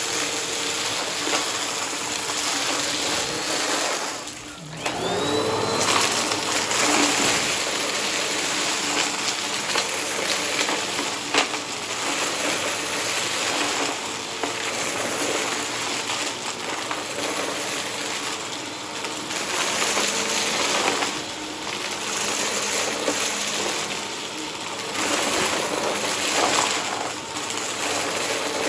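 Upright vacuum cleaner running steadily over carpet. A little over four seconds in, the motor dips briefly and then spins back up with a rising whine.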